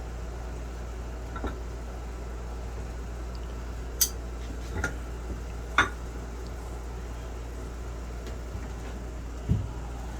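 Metal furnace parts being handled: a few sharp metallic clinks, loudest about four and six seconds in, and a dull thump near the end, over a steady low hum.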